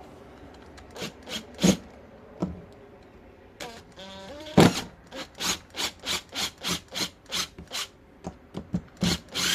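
Hand-tool work on a rusted brake caliper's retaining pin: a few scattered knocks, a short whir about four seconds in, then a run of regular scraping strokes, about three a second.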